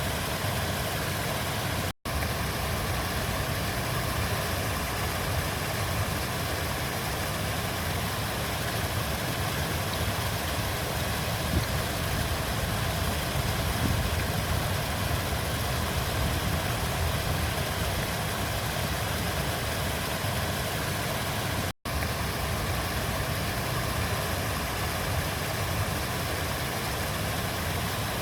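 Steady rush of flowing river water with a deep rumble, broken twice by a split-second dropout.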